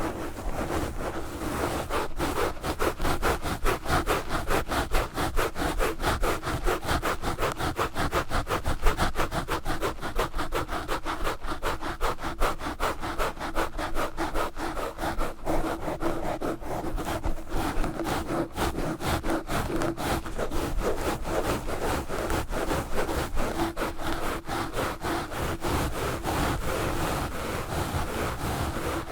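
Knitted wool gloves scratching fast and hard on a Blue Yeti microphone, a dense rubbing scrape of many strokes a second.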